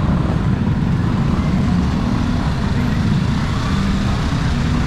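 Steady rumbling street noise with a hiss above it, typical of road traffic on a wet street.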